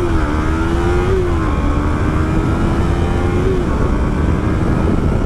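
Yamaha R3's parallel-twin engine pulling away, its pitch climbing and dropping at shifts in the first second and a half, then holding steady and easing off near the end, over heavy wind rumble on the mic.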